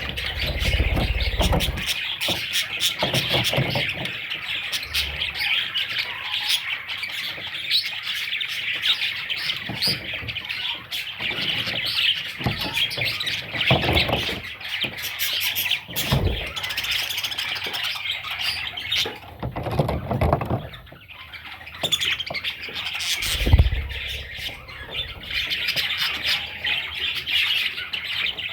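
Budgerigar chicks chirping and squawking in a continuous dense chatter, with a few dull low thumps scattered through it.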